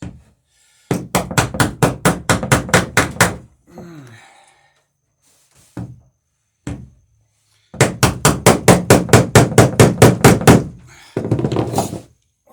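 Hammer riveting the planking of a wooden boat, the rivet backed by a heavy iron backing block: two runs of rapid blows, about five or six a second, with a few single taps between.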